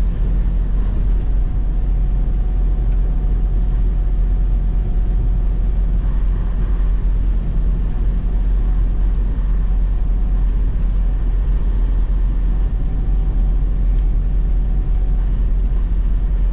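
Semi truck's diesel engine and tyre noise heard inside the cab while driving: a steady low drone with no distinct events.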